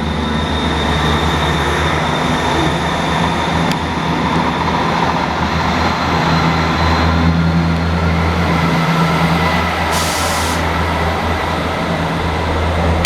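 GWR Class 158 diesel multiple unit running, a steady diesel engine drone that swells slightly midway. A short hiss, typical of an air release, comes about ten seconds in.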